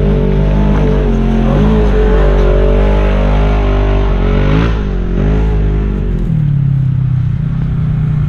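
Side-by-side UTV engine revving up and down under load as it climbs. About six seconds in it drops to a lower, steady tone.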